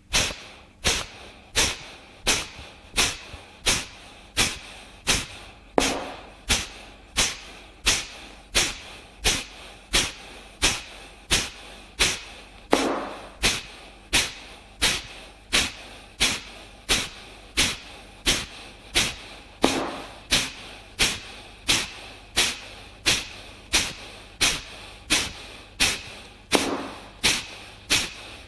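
Kapalabhati breathing: short, forceful exhalations snapped out through the nose, about three every two seconds, each followed by a quiet passive inhale. About every tenth exhale is a heavier, deeper beat that marks off each round of ten.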